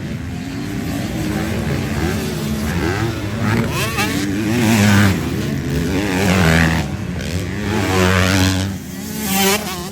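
Motocross motorcycle engines racing, the pitch climbing and dropping again and again with throttle and gear changes, loudest about halfway through.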